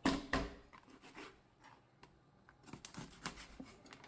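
Raw chicken being cut into pieces on a cutting board: two sharp knocks right at the start, then scattered quieter cuts, taps and scraping, busier about three seconds in.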